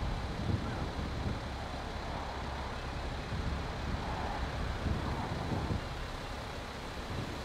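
Heavy vehicle engine running, a steady low rumble with road or wind noise over it.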